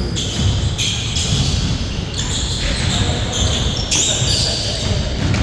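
Basketball game play: a ball bouncing on the court amid repeated short, high-pitched squeaks of sneakers on the floor.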